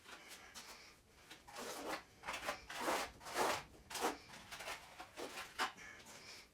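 Wet self-levelling compound being worked across a floor: a run of short swishing, scraping strokes, loudest around the middle.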